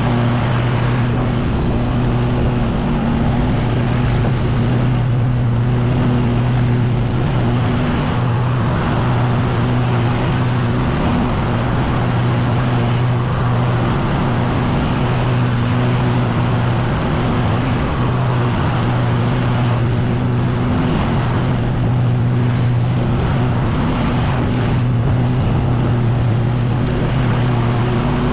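Echo PB-9010T backpack leaf blower's two-stroke engine running steadily at high throttle, with the rush of air from the blower tube.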